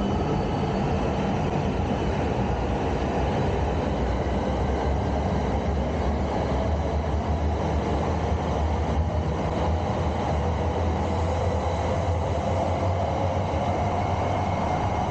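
E5 series Tohoku Shinkansen train pulling out of the station and running past along the platform as it gathers speed: a steady rumble of wheels on rail, with a whine that rises in pitch near the end.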